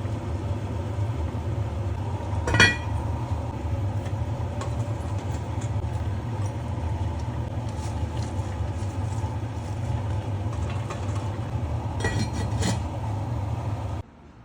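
A steady low hum with a few clinks of cookware: one sharp ringing clink about two and a half seconds in and a short cluster of clinks near the end. The sound cuts off abruptly shortly before the end.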